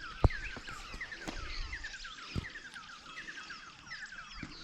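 Birds chirping continuously: a dense run of short, quick, downward-sliding notes. A sharp knock comes about a quarter second in, and a softer one about two and a half seconds in.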